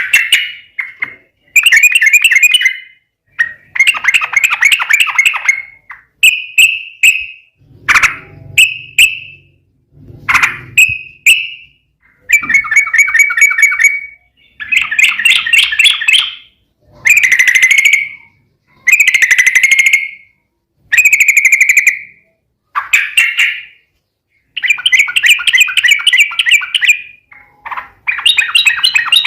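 Yellow-vented bulbul (trucukan) in loud, rapid fighting song: bubbly chattering phrases of half a second to two seconds, repeated one after another with short gaps.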